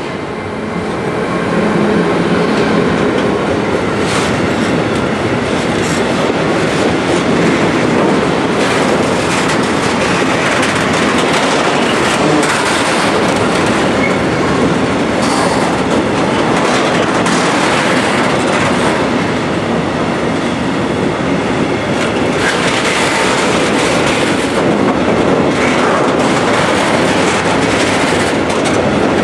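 Freight train passing close by: the sound builds over the first couple of seconds as the locomotive arrives. Then the wagons roll past in a steady, loud rumble, their wheels clattering over the rail joints.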